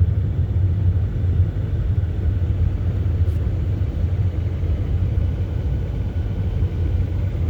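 Steady low rumble of a school bus driving: engine and road noise, even throughout.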